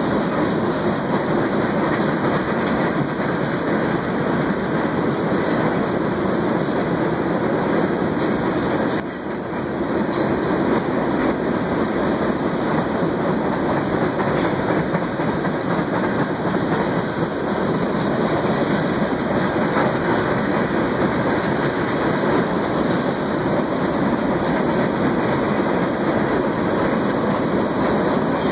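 CSX freight cars rolling across a steel trestle bridge: a steady noise of wheels on the rails, dipping briefly about nine seconds in.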